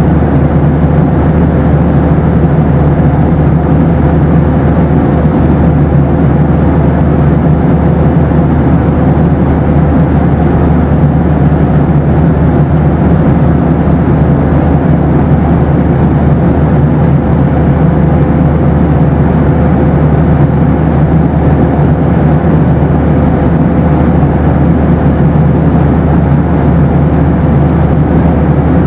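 Boeing 737 passenger cabin in flight: a steady, loud rumble of engine and airflow noise, with a thin steady tone above it.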